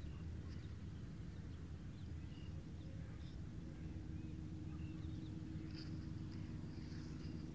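Faint, scattered short bird chirps over a steady low hum.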